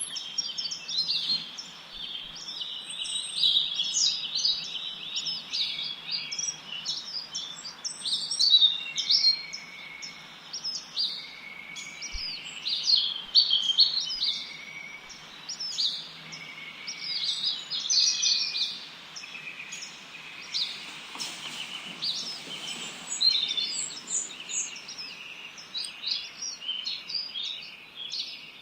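A chorus of songbirds chirping and singing together, with quick overlapping chirps and short whistled notes over a faint steady hiss.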